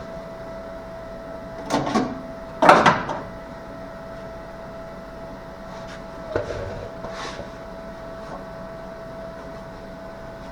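A few short knocks and clatters, like tools or metal parts being handled and set down, the loudest about three seconds in, over a steady hum.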